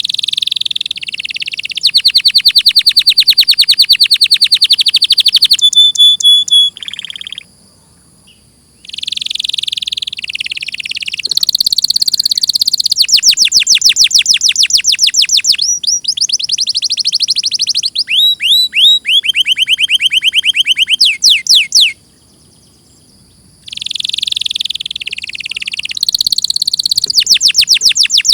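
Domestic canary singing, loud and close: long phrases of rapid repeated notes and trills, with two short pauses between phrases.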